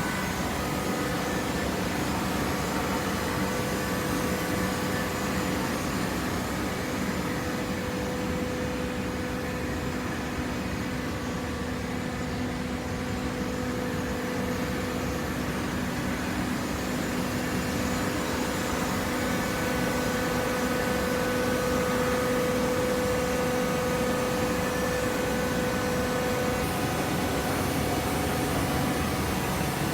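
Hydraulic baling press running: a steady machine hum from its motor and hydraulic pump, with a steady tone that grows a little stronger about twenty seconds in.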